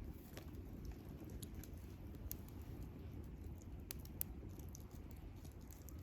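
Wood campfire crackling: scattered sharp pops and ticks over a low, steady rumble of the burning fire.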